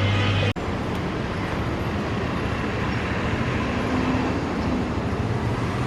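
Steady running noise of a moving vehicle, with no clear change except a faint brief whine about four seconds in.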